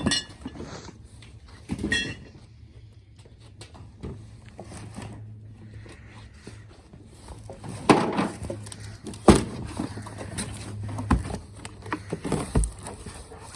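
Items being handled while boxes are unpacked: scattered knocks and clatters of objects being picked up and set down, the loudest near the end, over a faint low hum.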